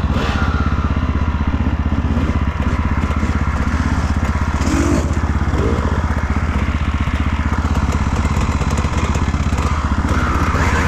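Off-road dirt bike engine running steadily under way, with ride noise over an action camera's microphone.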